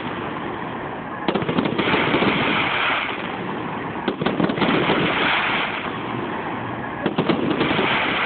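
Fireworks display: sharp bangs about every three seconds, each followed by a second or two of dense crackling.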